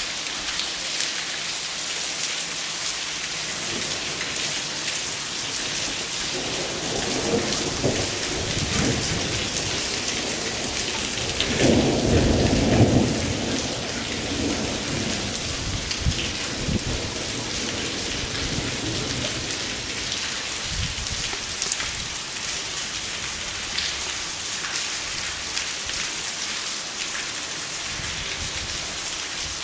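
Thunderstorm: a steady hiss of heavy precipitation beating on surfaces, with rolls of thunder rumbling through it. The loudest roll comes about twelve seconds in, with a lesser one a few seconds before it and fainter rumbles later.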